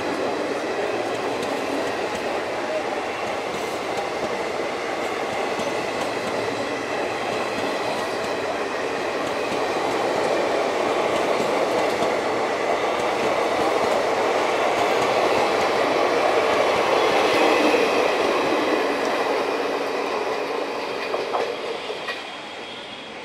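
Passenger coaches of the Howrah–Chennai Mail express pulling out of the station and rolling past, with a steady rumble of wheels on the rails. The sound grows louder through the middle and fades near the end as the last coaches pass.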